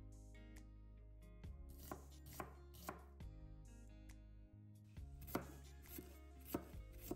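Kitchen knife chopping through vegetables onto a plastic cutting board, including slicing a red bell pepper. There are three sharp strokes about half a second apart around two to three seconds in, then another run of strokes about half a second apart in the last two seconds.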